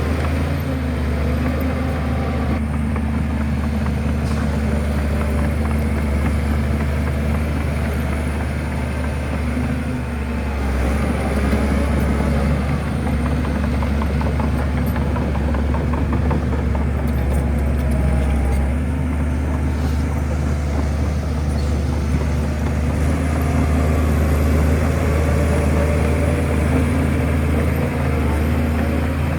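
Shantui bulldozer's diesel engine running steadily with a deep, even hum that gets a little louder about ten seconds in.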